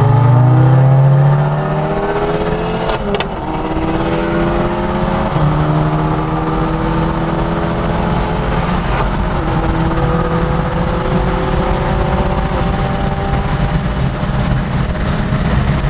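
Car engine accelerating hard through the gears in a race. Its pitch climbs steadily and then drops at each upshift, with about three shifts.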